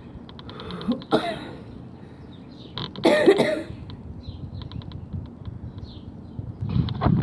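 A person coughing and clearing their throat, twice with a harsh burst, about a second in and again around three seconds in, then once more near the end. Small birds chirp in quick, repeated runs in the background.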